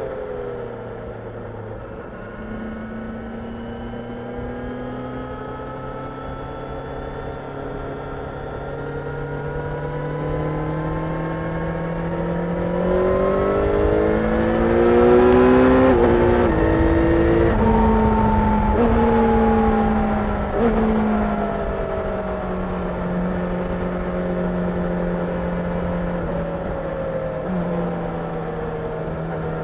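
Kawasaki Ninja 1000SX inline-four engine under way, its pitch climbing steadily as the bike accelerates. Just past halfway there are several quick gear changes, after which the engine settles into a steady cruise.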